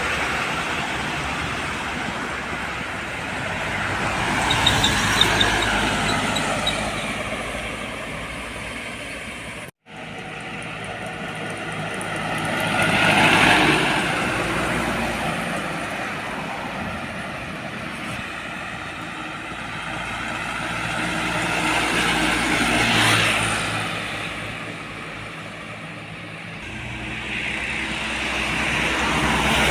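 Trucks and other road traffic passing one after another on a highway, each passing swelling up and fading away, about four times. The sound drops out for an instant near ten seconds.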